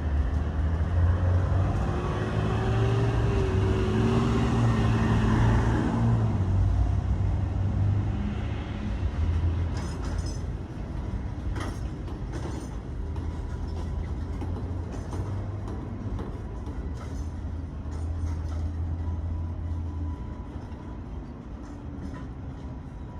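Train rolling slowly to a stop without any brake squeal: a steady low rumble with a whine during the first six seconds, then a run of clicks, the sound dying down toward the end.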